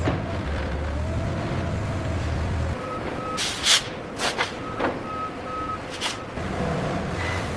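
Heavy vehicle engine rumbling, with short runs of reversing-alarm beeps about 3 s and 5 s in. Several sharp knocks break in over the beeps, the loudest about 3.7 s in.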